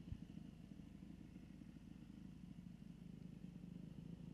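Faint dirt bike engine idling steadily with a low pulsing hum, and a short knock right at the start.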